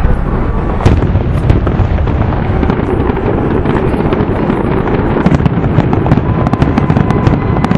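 Aerial fireworks going off in rapid succession: a continuous rumble of overlapping booms, with sharp crackling pops growing denser in the second half.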